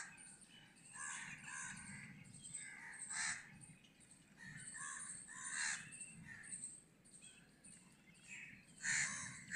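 Birds calling outdoors: a series of repeated calls, the loudest about three, five and a half and nine seconds in.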